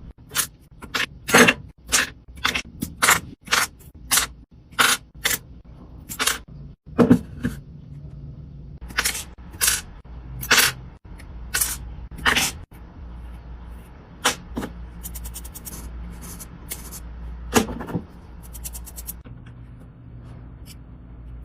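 Repeated short scraping strokes, nearly two a second at first, then fewer and further apart, with a couple of quick runs of fine ticks near the end.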